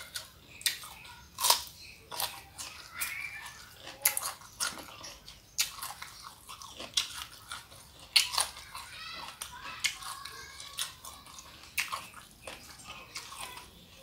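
Close-up eating sounds: chewing with wet lip smacks and sharp mouth clicks, coming irregularly.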